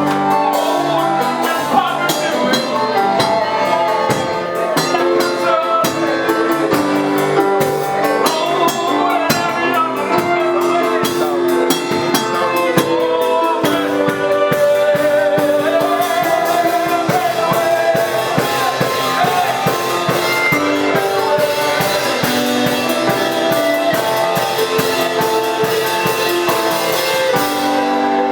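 Praise music from a band with drum kit and guitar under singing, at a steady level; the cymbals drop out near the end.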